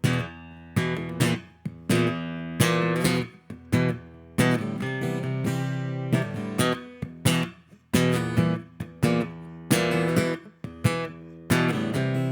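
Acoustic guitar playing the song's instrumental intro: chords struck one after another, some cut short and some left ringing.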